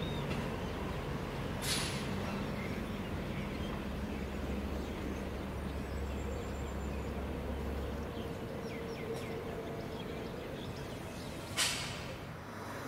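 A diesel-hauled passenger train pulling away across the yard, a steady low rumble of engine and wheels with a faint hum. Two sharp clicks, one about two seconds in and one near the end.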